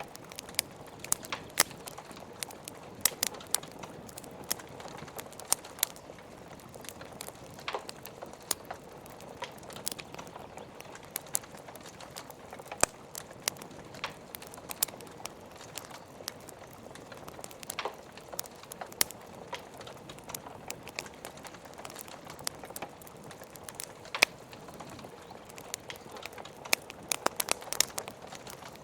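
Wood fire crackling, with irregular sharp pops and snaps from the burning logs over a steady hiss of rain.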